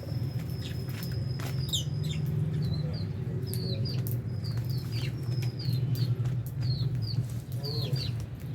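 Lovebirds chirping, short high falling chirps about twice a second, with scattered sharp clicks, over a steady low hum. A thin high steady tone stops about two seconds in.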